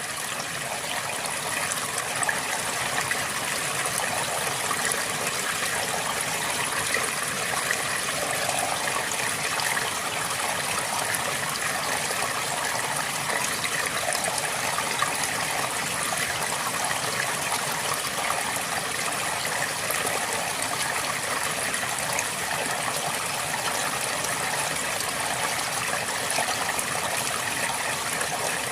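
Flowing river water, a steady rushing and babbling.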